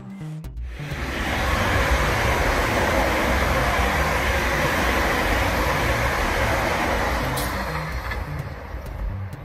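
Class 350 electric multiple unit passing at speed, with a steady rushing of wheels on rail. It builds about a second in and fades near the end as the train draws away.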